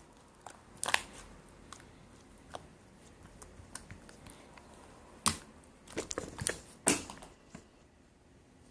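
Slime being squeezed and pressed by hand while two slimes are mixed into a brown slime, giving sharp crackling pops: one about a second in and a quick cluster between five and seven seconds in.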